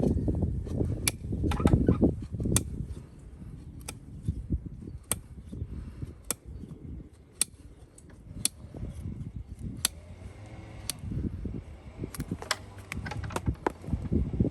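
Farrier's tools working a horse's hoof: rough scraping and cutting, with sharp snaps about once every second.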